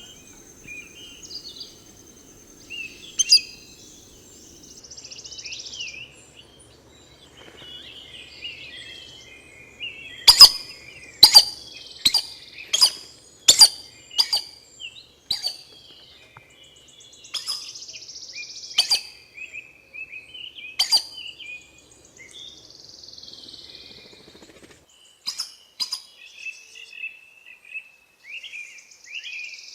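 Forest birds calling with many small chirps, and a run of about eight sharp, loud clicking notes about a third of the way in, followed by a few more scattered clicks.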